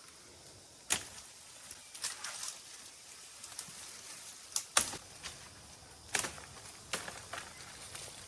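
Irregular sharp knocks and clicks, about seven of them at uneven intervals, over a low steady hiss.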